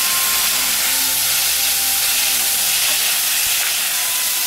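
Chopped tomatoes sizzling in hot sesame oil in a frying pan with fried chillies and spices, stirred with a spatula. A loud, steady frying hiss.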